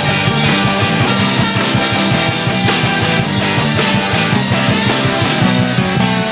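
Live band playing an instrumental passage of a song, with a steady beat and sustained low notes under it.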